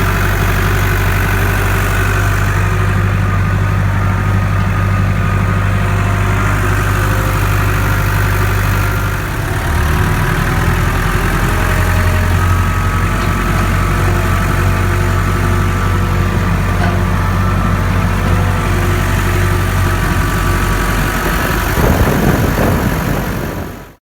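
Tractor engine running steadily at idle, its note dipping and shifting briefly about nine seconds in. There is a short louder noise near the end, then the sound fades out.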